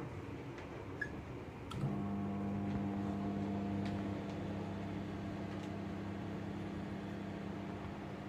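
Microwave oven being started: a short beep about a second in, then a click, and the oven's steady hum comes on as it begins heating and runs on.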